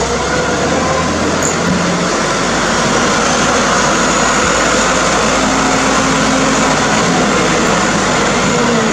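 Loaded Hino truck's diesel engine running, under a loud, steady wash of mechanical and rolling noise, its tone drifting slowly up and then back down.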